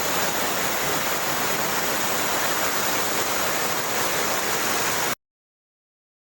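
Steady rush of falling water from a waterfall, cutting off suddenly about five seconds in to total silence.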